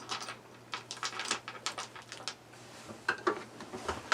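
Light clicks and taps of small parts being handled as the lift mechanism of a Fantastic Fan roof vent is pushed up onto its stem: a quick scatter of short knocks over the first two and a half seconds, then a few more near the end.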